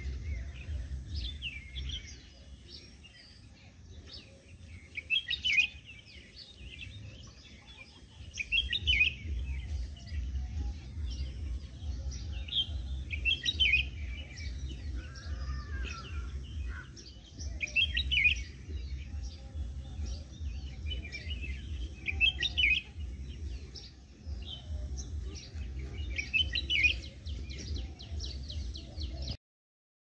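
Small birds chirping, with a short bright phrase repeating about every four to five seconds, over a steady low rumble. The sound cuts off just before the end.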